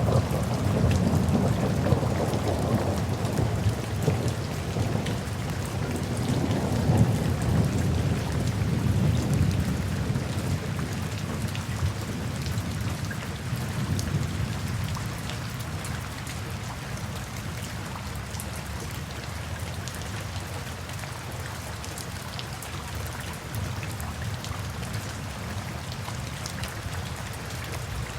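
Steady rain falling, with fine drop patter throughout. A long, low rumble of thunder is loudest in the first half and fades away by about the middle.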